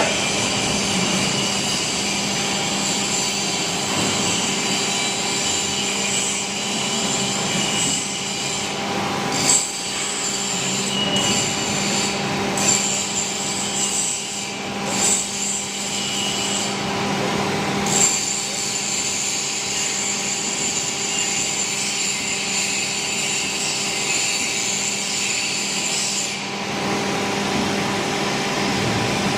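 W24S hydraulic profile bending machine running, likely while bending steel tube: a steady hum from its hydraulic drive under continuous scraping and rubbing, with a few brief louder knocks around the middle.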